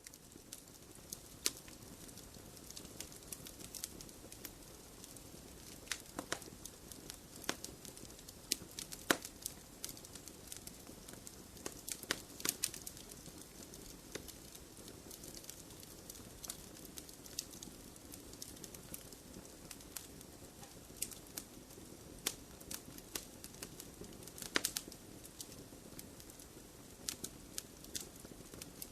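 Wood fire burning in a fireplace: a steady soft hiss with irregular crackles and sharp pops, a few of them louder than the rest.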